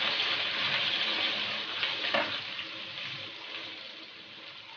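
Boiled bitter gourd pieces sizzling in hot oil in a steel pot just after being added, the sizzle gradually dying down. A single short click about two seconds in.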